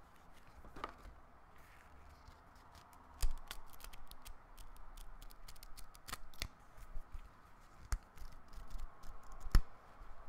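Hands handling the paper-wrapped manual and cardboard packaging of a VR headset box: crinkling and rustling with many sharp clicks and taps, the loudest about three seconds in and near the end.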